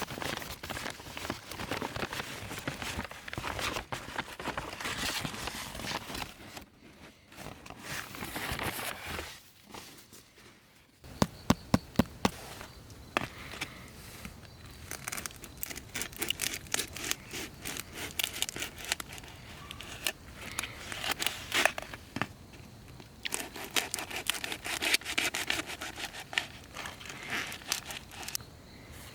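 Rustling and crinkling handling noise with many small clicks, broken by a quieter pause and then a quick cluster of sharp knocks about eleven seconds in.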